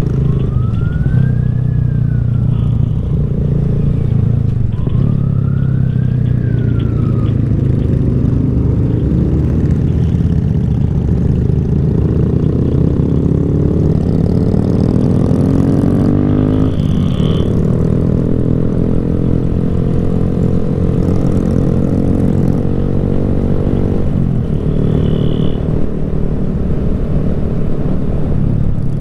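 Motorcycle engine running under way with road and wind noise, revs climbing through a gear, dropping sharply at a shift about halfway, then climbing again before easing off near the end. A siren-like tone rises and falls twice in the first several seconds.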